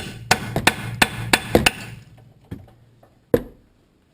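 Hammer tapping a steel chisel into the pinch-bolt slot at the lower control arm's ball joint to spread the clamp: a quick run of ringing metal taps over the first couple of seconds, then two single blows, the last one sharp.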